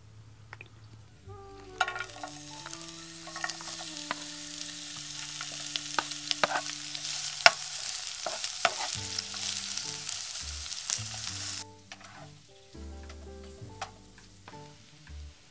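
Sliced onion and carrot strips sizzling in hot oil in a frying pan, stirred with a wooden spoon that knocks and scrapes against the pan with sharp clicks. The sizzling starts about two seconds in and cuts off suddenly about twelve seconds in.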